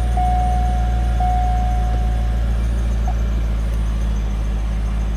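2004 C5 Corvette LS1 5.7-litre V8, just started, idling steadily. A steady high tone sounds over it and stops about two and a half seconds in.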